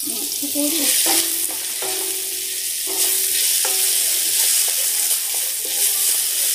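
Sliced onions, green chillies and curry leaves sizzling in hot coconut oil in a stainless steel wok, stirred round with a silicone spatula in repeated scraping strokes while the onions sauté down to soften.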